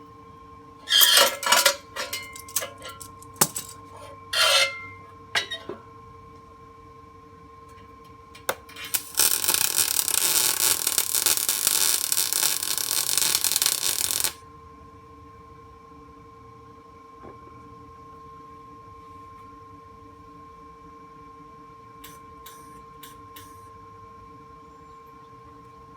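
MIG welder arc on the tractor's steel frame: a few short bursts in the first six seconds, then one continuous bead of about five seconds that cuts off sharply.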